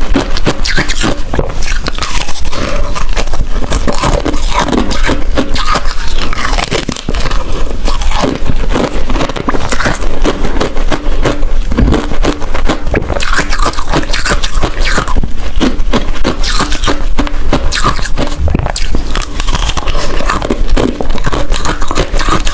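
Ice being bitten and chewed loudly, a dense unbroken run of crunching and cracking.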